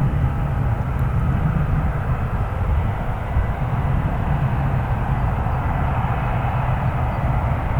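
Boeing 737 airliner running on the ground during pushback: a steady low rumble with a thin, steady high whine over it.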